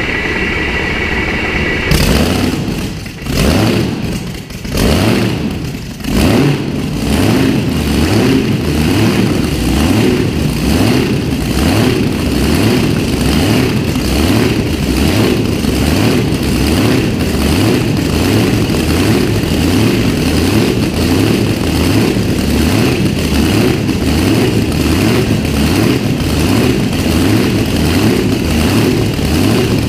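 An engine being started for the first time: a steady whine for about two seconds, then it fires and catches, is blipped a few times, and settles into a steady idle with an even lumpy pulse.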